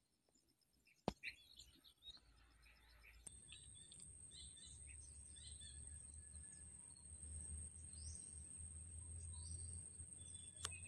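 Faint birds chirping, with a single click about a second in. From about three seconds in, a low rumble and a steady high whine join the chirping.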